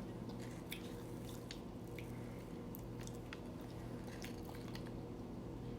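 Quiet mouth sounds of someone chewing a soggy Italian sub: faint wet clicks and squishes scattered through, over a steady low room hum.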